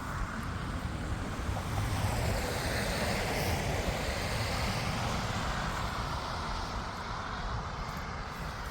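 A vehicle passing by, its noise swelling about two seconds in and fading after about six, over a steady low rumble.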